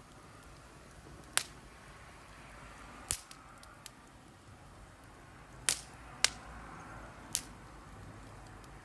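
Wood campfire crackling: six sharp pops at uneven intervals, two close together past the middle, over a faint hiss of the flames.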